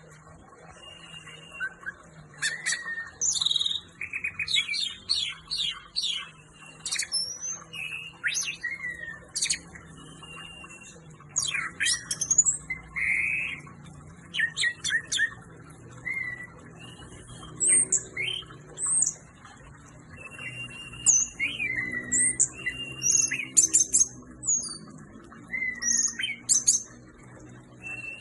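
Orange-headed thrush (anis merah) singing hard, 'on fire': quick, varied high whistled phrases, slurred glides and sharp chirps, delivered in short bursts with brief pauses between them.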